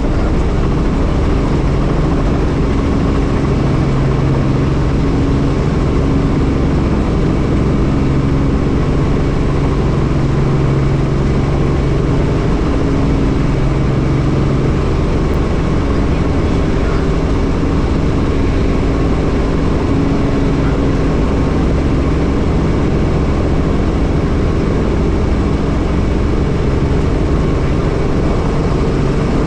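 Helicopter engine and rotor noise, a steady loud drone with a low hum that does not change.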